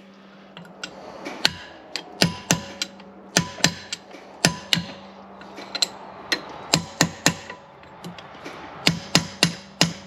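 Hammer blows on steel, driving a part further onto a mower shaft. The strikes come in quick runs of two to four with short pauses between, each ringing briefly.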